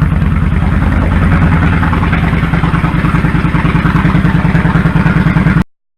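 2001 Kawasaki Drifter 1500's V-twin engine running with a steady, even low pulse; the sound cuts off abruptly near the end.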